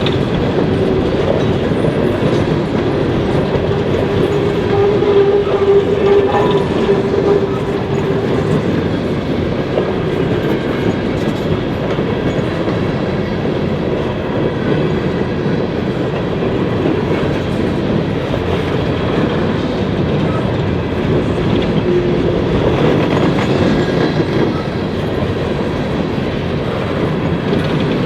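Train cars rolling past at track side, wheels clacking over the rails in a continuous loud rumble, with a steady tone standing out for the first several seconds.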